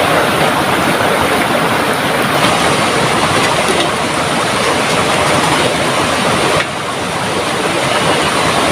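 Heavy tropical downpour with rushing river water: a loud, dense, steady hiss that drops slightly in level suddenly about two-thirds of the way through.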